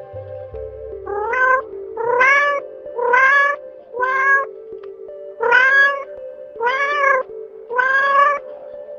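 Domestic cat meowing repeatedly: about seven short meows roughly a second apart, each rising then falling in pitch, over soft background music with sustained notes.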